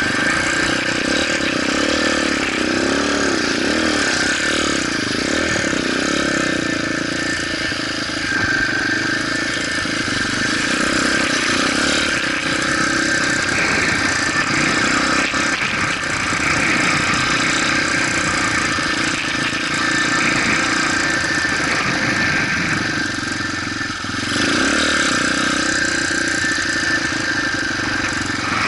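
Motorcycle engine running continuously while being ridden, its pitch wavering now and then as the revs change.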